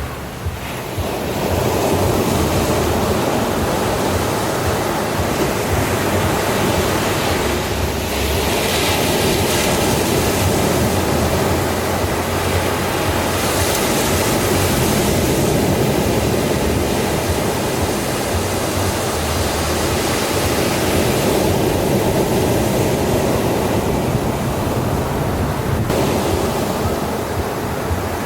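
Ocean waves breaking and washing on a shore: a continuous rushing wash that swells and eases in several surges.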